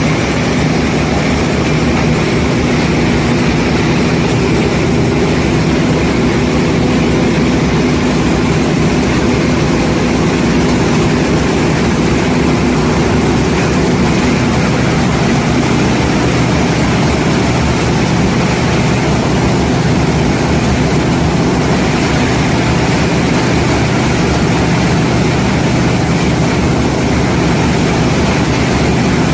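Hydraulic corncob baling machine running, a steady mechanical hum with no pauses or strokes.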